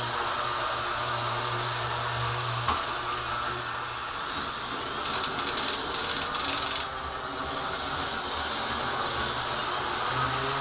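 HO-scale model train running on its track: a steady electric motor whir with wheel noise on the rails and a low hum that drops out about a quarter of the way in and returns near the end.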